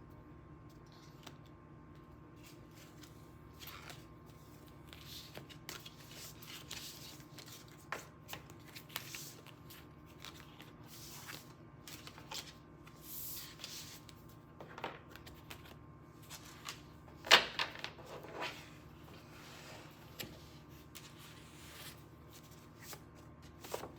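A deck of tarot cards being shuffled and handled: a run of soft swishes and light taps, with one sharp snap about two-thirds of the way through.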